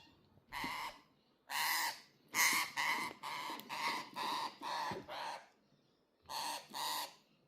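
A young eastern rosella parrot giving repeated harsh, rasping calls, about ten of them, many in quick pairs, with a pause about five seconds in.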